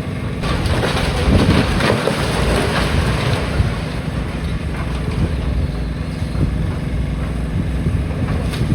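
Demolition machinery's diesel engine running steadily under a rough rumble, with scattered knocks in the first few seconds, and wind buffeting the microphone.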